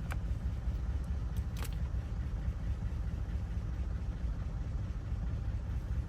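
Vehicle engine idling with a steady low rumble. Two light clicks, one at the start and one about a second and a half in.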